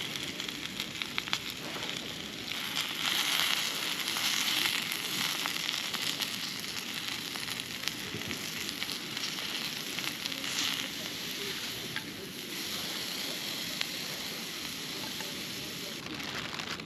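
Spinach sizzling in hot oil over an open campfire, a steady frying hiss dotted with small crackles. It swells louder about three seconds in and again around ten seconds.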